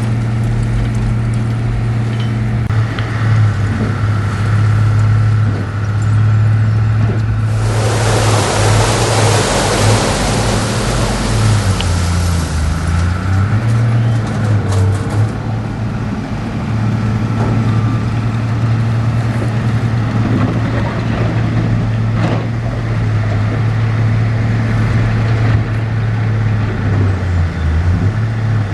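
Heavy diesel earthmoving engine running steadily under changing load, its low drone dipping and recovering several times. From about seven and a half seconds in, a loud rushing noise lasts about five seconds.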